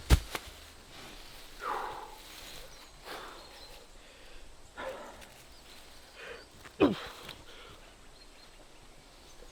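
A man breathing hard and grunting in short, forceful exhales every second or two while straining under a heavy lift, with a sharp thud right at the start.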